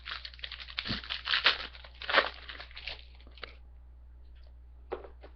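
Plastic wrapper of a trading-card pack crinkling for about three and a half seconds, then a single soft click near the end.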